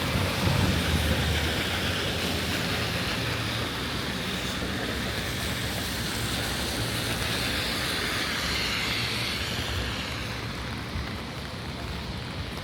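A heavy vehicle's engine rumbling steadily close by, heard over the hiss of steady rain and wet street traffic. It eases off about ten seconds in.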